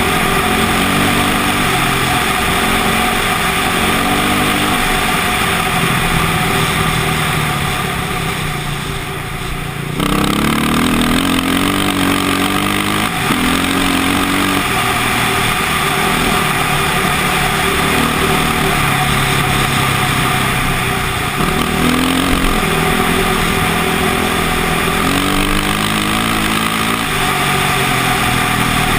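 KTM motocross bike's engine under way, its pitch rising and falling again and again as the throttle is worked. The engine eases off and drops in level shortly before ten seconds in, then picks up sharply again.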